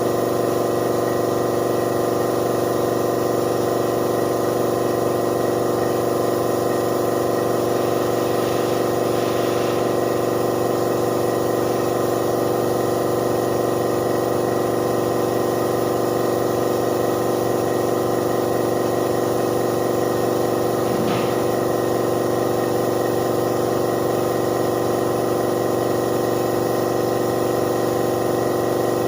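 Air compressor running steadily with an even machine hum, with two brief faint hissing blips, about a third of the way in and again about two-thirds of the way in.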